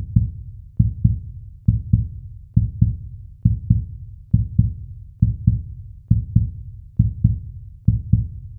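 Heartbeat sound effect: low paired thumps, lub-dub, repeating steadily a little under once a second.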